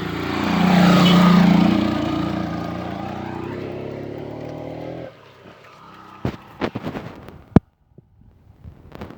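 A motor vehicle's engine passing close, loudest about a second in, with its pitch dipping and rising again, then cutting off abruptly about five seconds in. After it come a few sharp clicks and knocks.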